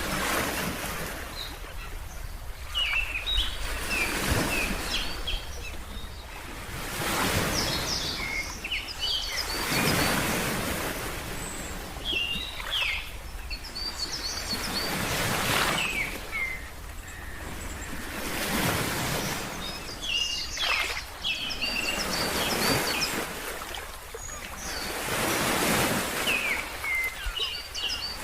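Ocean surf washing in, swelling and fading every few seconds, with birds chirping in short clusters of high notes between the swells.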